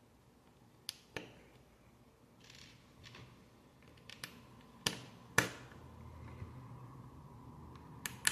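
Plastic Lego pieces clicking and tapping as they are handled and pressed together: scattered sharp clicks with soft rustling between, the loudest two a little past halfway.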